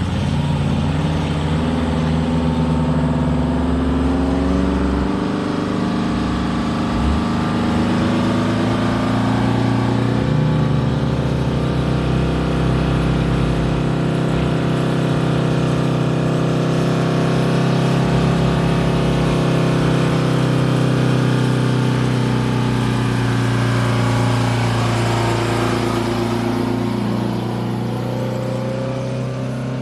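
Truck engine running, its pitch climbing slowly for most of the time and then easing back down near the end.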